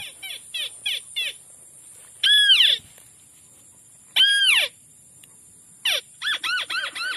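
White-breasted waterhen calls: a quick run of arched, rising-then-falling notes, then two long loud calls about two and four seconds in, and another quick run near the end. A steady high hiss runs underneath.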